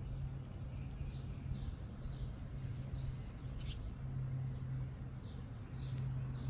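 A small bird chirping: short high chirps that slide downward, repeated about every half second in loose runs. Under it runs a low steady hum that cuts in and out, with a few faint clicks.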